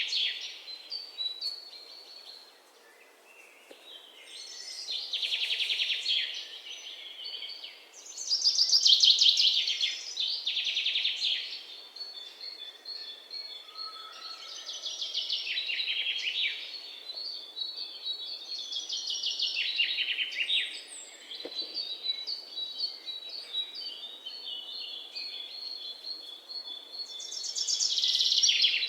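Birds calling: repeated high trills of rapid notes every few seconds, with thin, steady high whistled notes between them.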